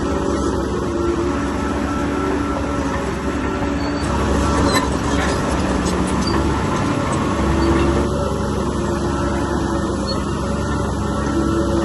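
Bulldozer's diesel engine running steadily under load, with the clanking and squeaking of its steel tracks and a few sharp metallic clicks about four to five seconds in.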